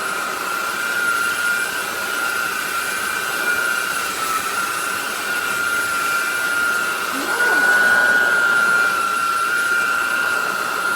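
SMOTURE cordless stick vacuum running with a steady high whine over a constant rush of air. The tone swells slightly for about a second, roughly eight seconds in.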